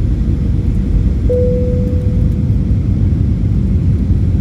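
Steady rumble of engine and airflow noise inside an Airbus A321 passenger cabin. About a second in, a single chime rings out and fades away over about a second.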